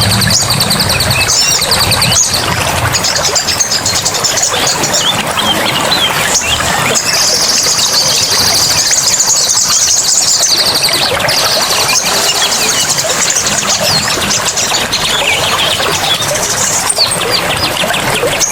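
A dense chorus of forest birds, with rapid trills and many short chirps overlapping, over steady running water.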